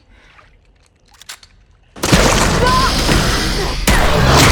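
After near quiet, a sudden loud crash about halfway through that runs on as a dense, rushing din with short squealing or creaking tones over it: film sound effects of something breaking apart.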